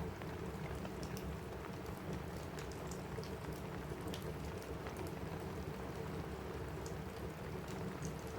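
Steady rain falling on a roof, with a fire crackling: a constant even hiss with scattered sharp pops and ticks throughout.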